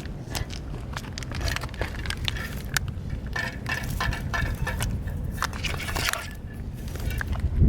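Cats eating dry cat food: a rapid, irregular crunching and clicking of kibble being chewed, over a steady low background rumble.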